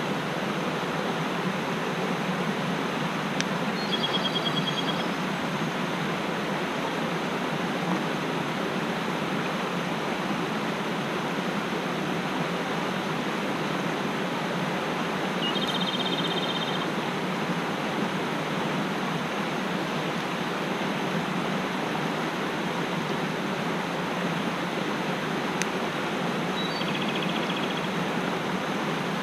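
Mountain stream water rushing steadily. A small bird sings a short trilled phrase three times, about four seconds in, near the middle and near the end.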